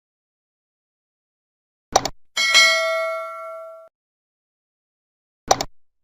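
A sharp double click, then a bell ding that rings with several overtones for about a second and a half before cutting off abruptly. Another double click comes near the end.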